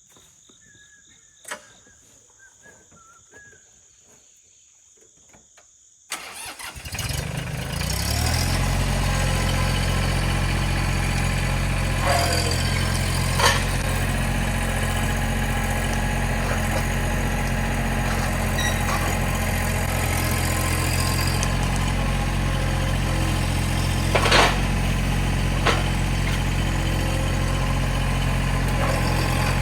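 A motor vehicle's engine starts about six seconds in and settles into a steady idle, with a few short sharp clicks over it. Before it starts, birds chirp faintly.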